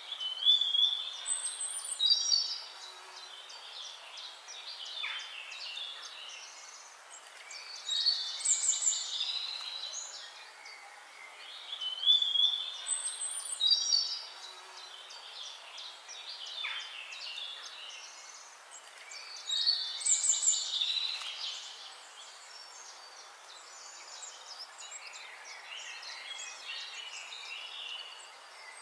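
Birdsong: a songbird sings a loud, varied phrase about every six seconds, over fainter chirping from other birds in between.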